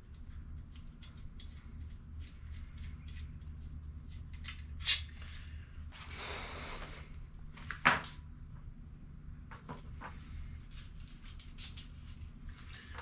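Small clicks and knocks of hand tools and engine parts being handled, with two sharper knocks about five and eight seconds in, over a steady low hum.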